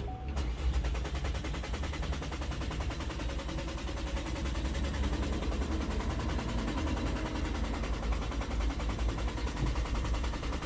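2018 Chevrolet Cruze engine cranking on the starter for about ten seconds with rapid, even pulses, but never catching. It cranks but will not start, which the uploader puts down to an intermittent fuel pump failure.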